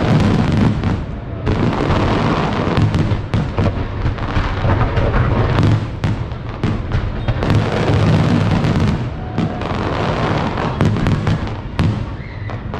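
Fireworks display: a rapid, continuous barrage of booms and crackling bursts, one following close on another.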